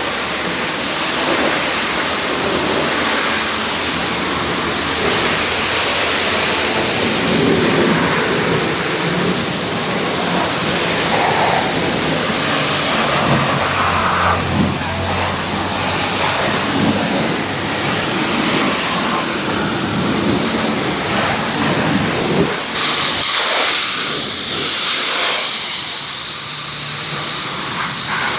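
Pressure washer spraying water onto a truck, a steady loud hiss and splatter. About 23 seconds in, the sound thins to a higher, sharper hiss.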